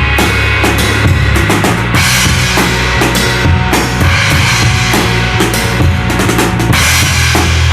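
Echoslap Gig Box cajon-style box drum played in a steady groove, with deep bass strikes and sharper snare-like slaps, over music with a bass line.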